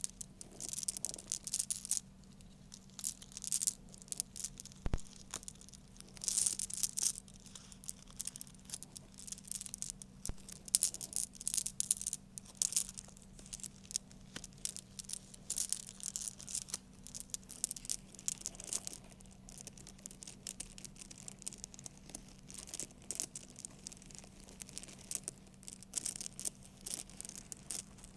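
Close-miked crinkling, in irregular bursts of sharp, high crackle, over a faint steady hum.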